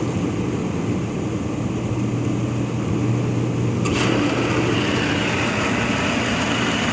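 Hot tub pump running with a steady hum; about four seconds in there is a click and a louder rushing hiss joins as more flow starts. The pump is an old, noisy unit that will probably have to be replaced soon.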